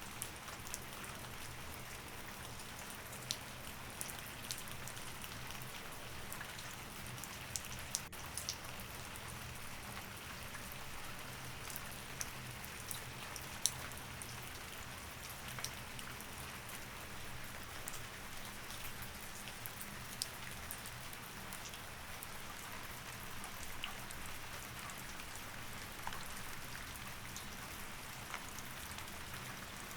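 Steady rain falling on a surface, an even hiss with scattered louder drops ticking through it.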